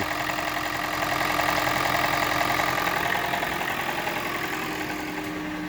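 Toyota Prius 1NZ-FXE 1.5-litre four-cylinder engine idling evenly with a rattling knock that the owner places at the valve cover and suspects may be piston slap. The engine runs smoothly without misfiring despite the knock.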